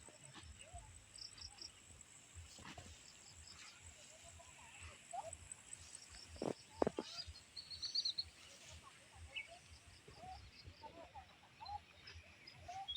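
Rice-field ambience: a steady, high-pitched insect trill with small birds chirping, and scattered short, low animal calls, the loudest pair a little past the middle.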